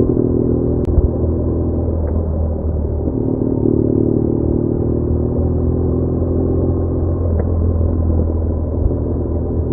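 BMW R1200R boxer-twin motorcycle engine running under way, its note changing about three seconds in.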